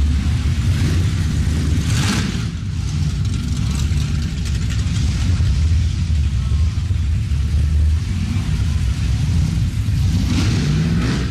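Classic cars cruising slowly past, engines rumbling steadily, with louder swells about two seconds in and again near the end as cars pass close or rev.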